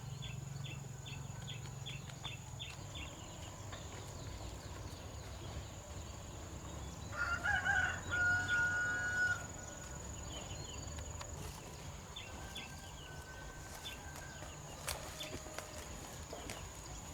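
A rooster crowing loudly about seven seconds in, with a fainter crow later, over a low steady hum.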